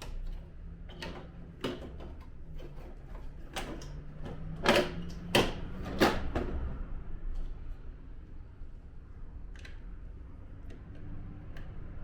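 Irregular clicks and knocks of plastic air-conditioner indoor-unit parts being handled and fitted together during reassembly, with three louder snaps close together about halfway through.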